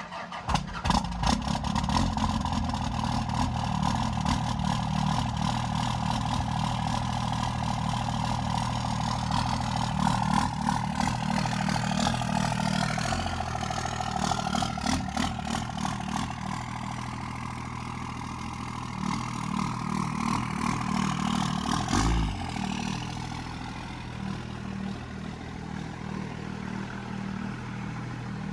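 A pickup truck engine starts and runs at a steady idle, with some rises in engine speed. There is a single heavy clunk about 22 seconds in.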